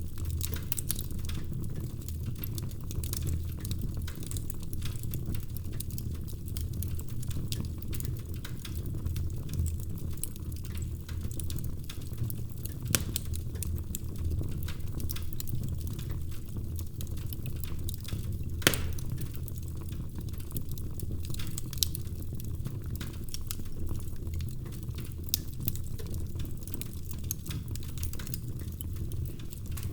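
Wood fire crackling in a fireplace: a steady low rumble under a dense run of small crackles, with a few louder pops, the loudest a little after halfway.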